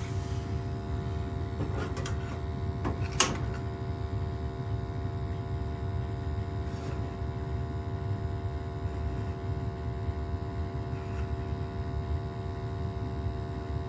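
Gas-fired hot water boiler's burner firing with a steady low rumble and hum, with a sharp click about three seconds in. The plumber takes its high carbon monoxide on startup for the sign of a wrong replacement gas valve, one that opens directly instead of step-opening.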